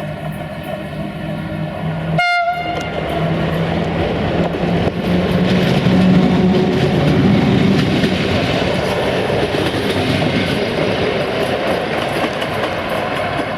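Train horn sounding a steady chord for the first couple of seconds. It is followed by the loud rumble and wheel clatter of a train passing close by on the rails, swelling to its loudest midway.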